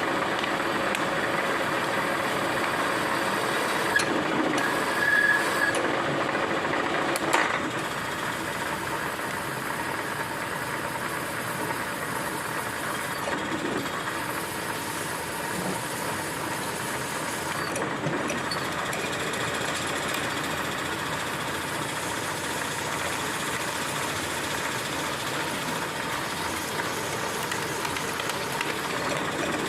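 Milling machine running steadily, with two sharp knocks in the first several seconds and a short high tone about five seconds in.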